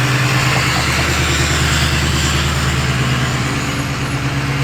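A bus engine running steadily at low revs, an even low hum with a steady hiss over it.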